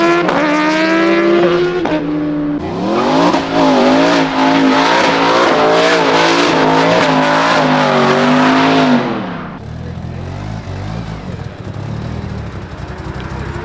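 A high-performance car engine revving hard: its pitch climbs, then stays high and wavers up and down for about six seconds with a rushing noise over it. About nine seconds in it drops away to a quieter, low rumble.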